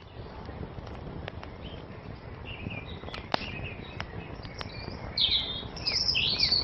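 Wood fire crackling, with scattered sharp pops over a low steady hiss, while a songbird sings quick swooping phrases that grow louder in the second half.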